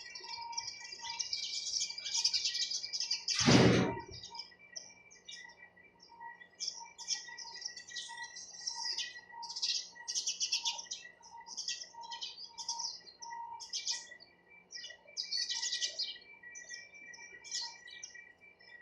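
A group of sparrows chirping busily, in a constant stream of short, high chirps. There is one loud thump about three and a half seconds in.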